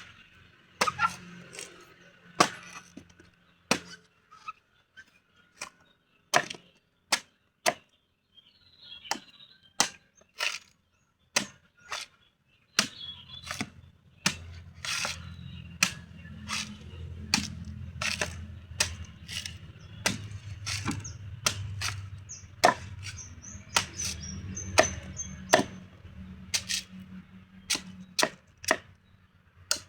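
Repeated sharp chopping strikes on a coconut, about one or two a second. A low steady hum comes in about halfway through.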